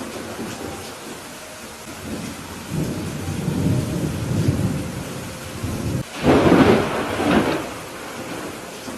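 Steady rain with rolling thunder: a low rumble builds a few seconds in, then a louder clap of thunder rumbles out after about six seconds before dying back to the rain.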